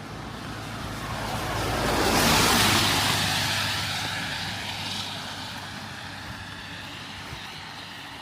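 A vehicle passing by on a wet road: its tyre hiss swells to a peak about two seconds in, then fades away slowly.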